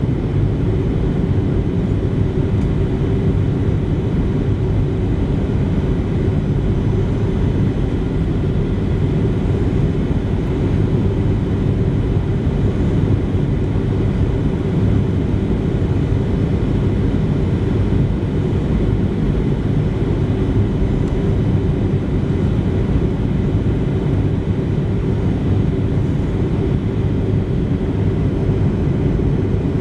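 Steady cabin noise inside a Boeing 737-700 in flight: a deep, even rush of airflow with the hum of its CFM56-7B engines, unchanging throughout.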